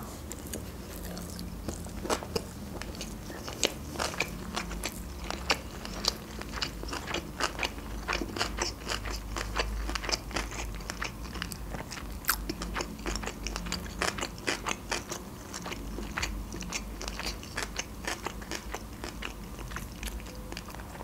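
A person chewing a mouthful of sushi roll, with many small sharp clicks and wet smacks of the mouth.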